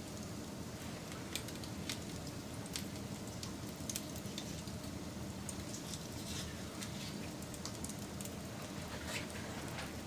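Wood campfire burning, a steady low rumble and hiss with irregular sharp crackles and pops scattered through it.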